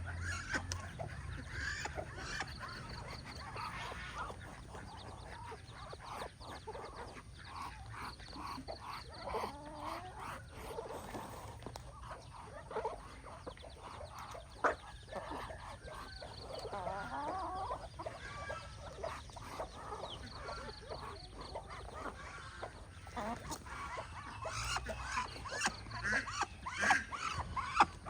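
Farmyard poultry calling on and off: a loose mix of short clucks, honks and calls from several birds, with scattered clicks and taps among them.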